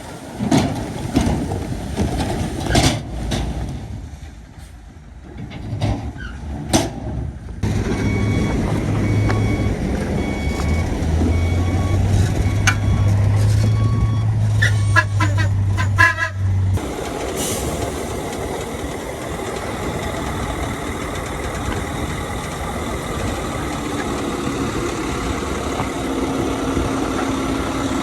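Heavy diesel earthmoving machinery running, a bulldozer and a dump truck at work, with knocks and clanks in the first few seconds. The sound changes abruptly about two-thirds of the way through into a steady engine note.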